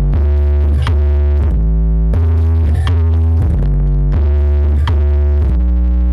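Electronic dance music played loud through a large sound system, with long, heavy bass notes and synthesizer chords, and a few sharp hits.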